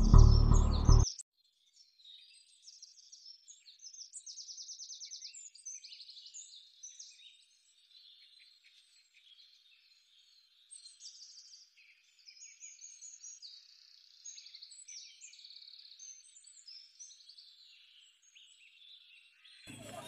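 Small songbirds chirping and trilling in high, thin, overlapping calls with short rapid trills, with nothing lower beneath them. A music track ends abruptly about a second in.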